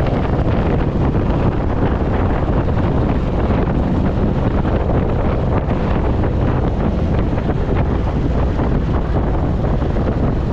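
Steady wind rush buffeting the microphone of a moving motorcycle, with a dense low rumble of the ride underneath.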